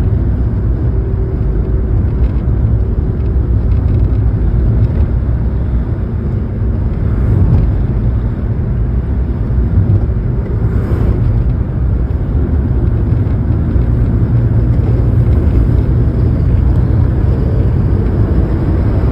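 Steady low rumble of a moving vehicle's engine and road noise, even throughout with no distinct events.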